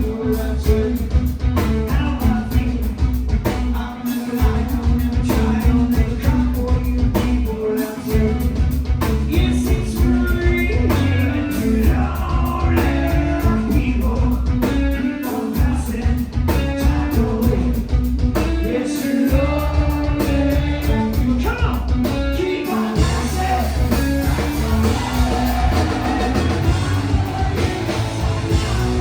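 Live rock band playing, with electric guitars, bass, drums and a lead vocal. The bass and drums drop out for a moment every few seconds.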